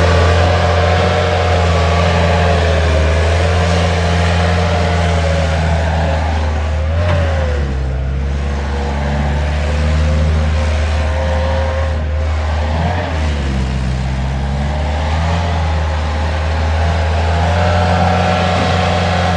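Bobcat S175 skid steer's diesel engine running steadily. Its pitch dips briefly, as if under load, about seven seconds and again about thirteen seconds in.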